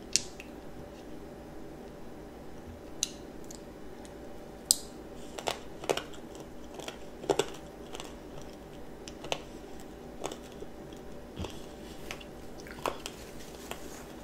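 A child chewing and crunching candied strawberries, with sharp irregular crunches every second or so. A faint steady hum runs underneath.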